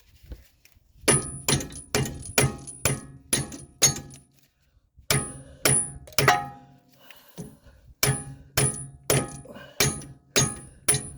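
Hammer striking metal repeatedly, about two blows a second in three runs, each blow with a short ring. The blows are driving a tight-fitting strut part into place on a car's front suspension.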